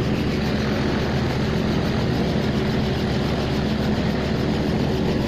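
Helicopter engine and rotor running steadily, an even drone with a steady low hum and a fast, regular rotor pulse.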